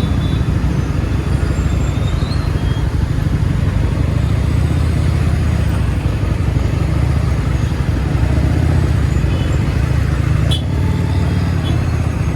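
Steady low rumble of a motorcycle being ridden along a highway, with a short click about ten and a half seconds in.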